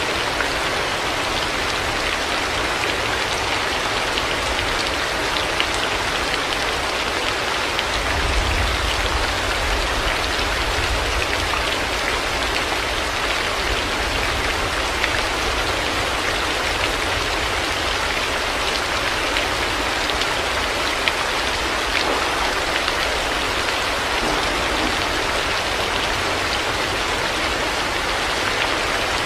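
Heavy rain falling steadily, a dense even hiss of drops with a few sharper drop ticks. A low rumble of thunder swells briefly about eight seconds in.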